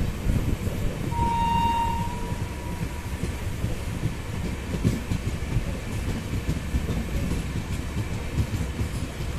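Passenger train running, heard from inside the coach: a steady rumble of wheels on the track with irregular knocks. About a second in, a high horn tone sounds for about a second.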